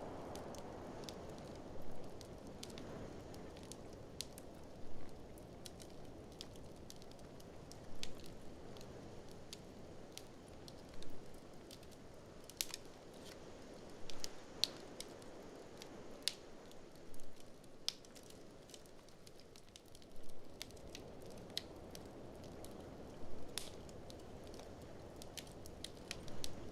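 Wood fire in a fireplace crackling with many sharp pops, over a steady soft rush of blizzard wind. A short, louder swell comes about every three seconds.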